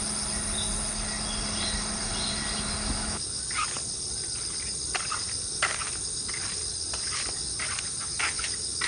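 A steady, high-pitched chorus of insects over rain; after about three seconds the rain noise thins out and single drops tap at irregular intervals.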